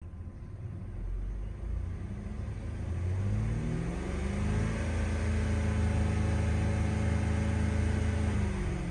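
2011 Cadillac SRX 3.0L V6 engine running, heard from the driver's seat. It idles low, is revved up from about three seconds in, held at higher revs for several seconds, then starts to drop back near the end.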